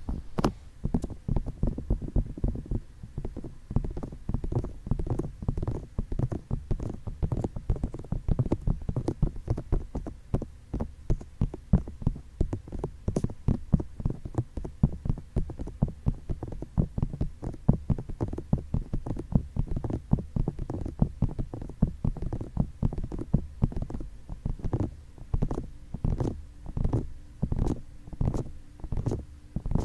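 Fingertips tapping and rubbing on a binaural microphone's ears for ASMR: a rapid run of dull, low taps, many a second, that settles near the end into evenly spaced taps about two a second.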